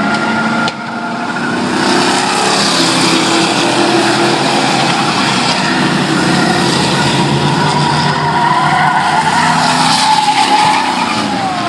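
Several classic race trucks running hard around the track together, their engines a continuous layered drone. Near the end an engine's pitch falls away as a truck goes past.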